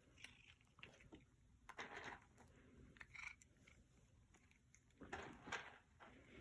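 A cat crunching dry treats: faint, irregular bouts of chewing, the clearest about two seconds in and again near the end.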